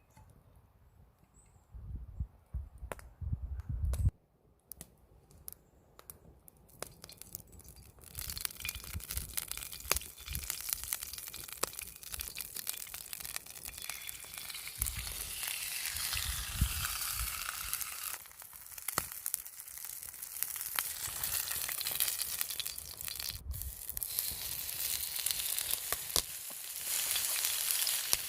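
Food frying in a hot pan over a campfire. After a few quiet knocks and clicks of handling, a steady sizzle starts about eight seconds in and carries on.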